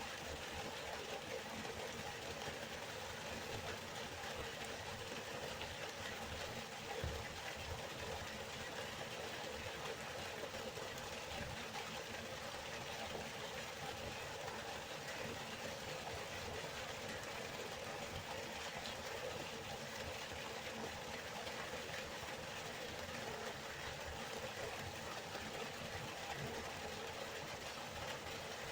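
Waterfall: a steady rushing of falling water with a low rumble underneath, and one brief low thump about seven seconds in.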